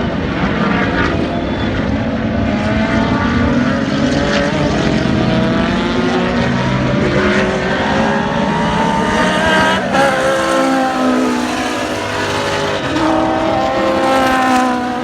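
Race car engines running on a track, their pitch rising and falling as they rev and pass through the gears.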